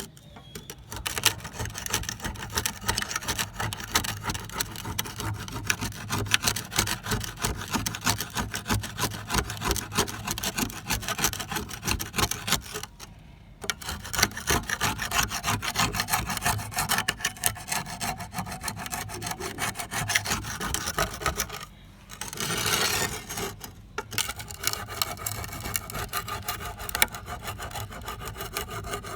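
Fast, repeated scraping strokes of hand abrasion on the old trowel's metal, as in sanding, filing or wire-brushing off rust. The rubbing stops briefly twice.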